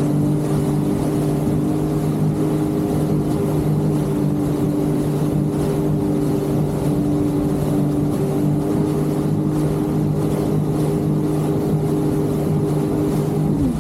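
Jet ski engine running at a steady cruising speed, one even engine note over the rush of water and wind.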